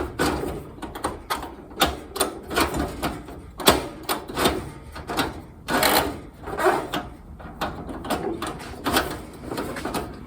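Kerosene heater's wick adjuster knob being turned and its shutoff mechanism worked, giving irregular metal clicks and clatter, with a couple of louder knocks about a third and halfway through. This is a function test of a freshly fitted, still-dry wick, which doesn't yet move freely or shut off correctly.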